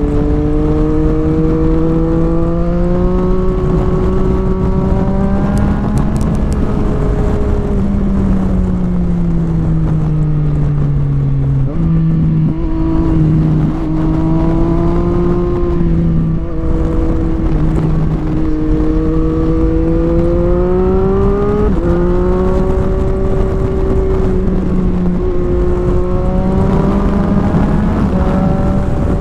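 Sport motorcycle engine heard from on the bike while riding. Its pitch climbs and sags as the throttle opens and closes, with a few sudden steps as it changes gear. Steady wind rumble sits underneath.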